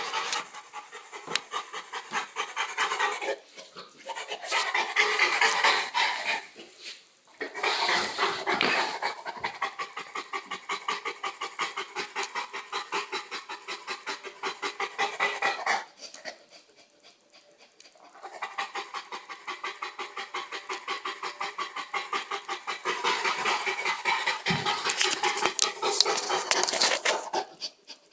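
Dogue de Bordeaux panting heavily in a rapid, even rhythm. There are a couple of brief breaks and one longer pause of about two seconds midway.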